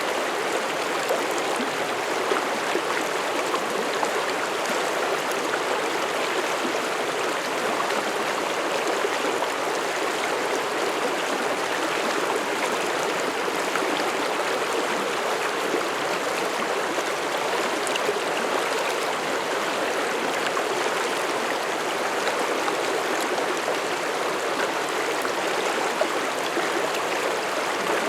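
Mountain stream flowing steadily over rocks through a forest, a constant rushing babble with small splashes and trickles on top.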